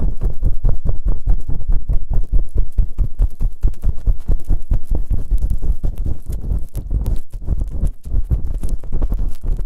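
Fast, rhythmic rubbing and scraping on the ears of an ASMR microphone, many quick strokes a second, deep and muffled.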